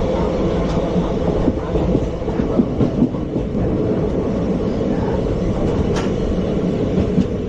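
Indian Railways ICF passenger coach running over the track: a steady rumble with a few sharp wheel clicks over rail joints, the clearest about six seconds in.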